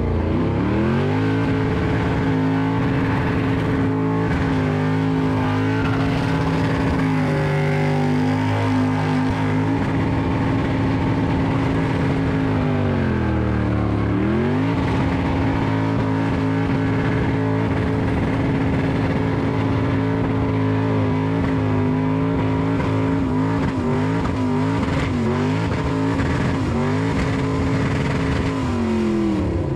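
Burnout car's engine held at high revs: steady, with a dip in revs about halfway through, a few quick flutters in revs near the end, then the revs falling away.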